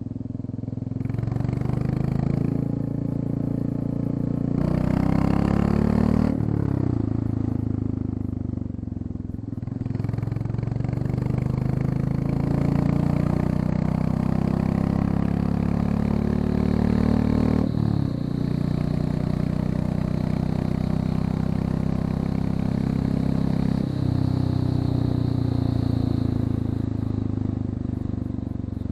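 Royal Enfield Classic 350's single-cylinder engine running with the muffler end-piece removed (catalysts still fitted). The bike is ridden under throttle, its pitch climbing and dropping several times as it accelerates and changes gear, with sharp drops about six seconds in and again near eighteen seconds.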